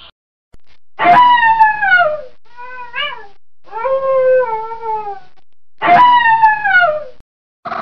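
Domestic cat meowing four times. The first and last meows fall in pitch, the second is short and rising, and the third is long and drawn out.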